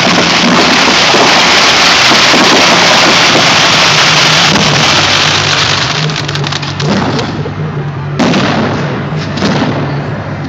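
Fireworks going off: a dense, continuous crackling barrage for about the first six seconds. It then thins to single bangs about a second and a half apart.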